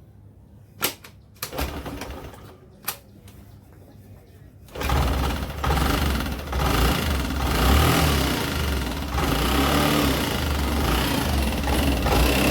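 Two sharp clicks and a short burst of noise, then about five seconds in a scooter's small engine starts and keeps running steadily.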